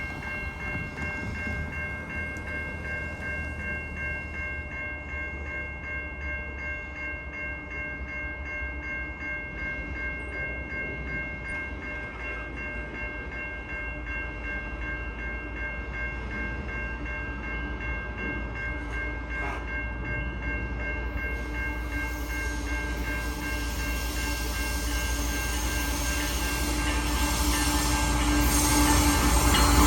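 Grain train approaching, led by a CP ES44AC diesel-electric locomotive: a low rumble that grows steadily louder toward the end. Steady high-pitched tones run throughout.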